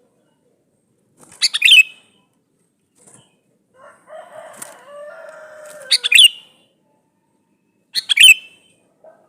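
Male sooty-headed bulbul (kutilang) calling: three short, loud, bubbling call phrases, about a second and a half in, about six seconds in and near the end. Between the first two comes a lower, drawn-out sound of about two seconds that falls slightly in pitch.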